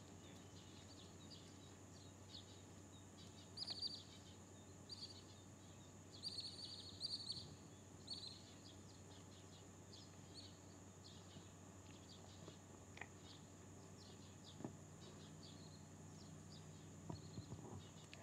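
Near silence: faint outdoor ambience with small birds chirping in short, scattered bursts, busiest a few seconds in and again around seven seconds in.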